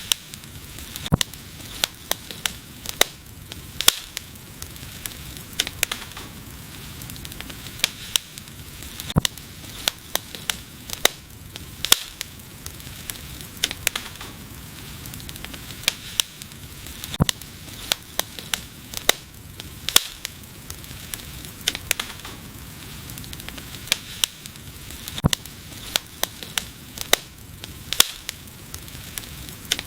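Wood fire crackling and hissing: irregular sharp pops, sometimes several in quick succession, over a steady soft hiss.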